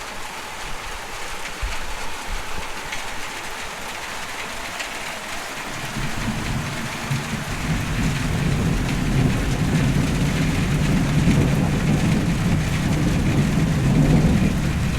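Steady rain falling, with a low rumble of thunder that sets in about six seconds in, swells and keeps rolling.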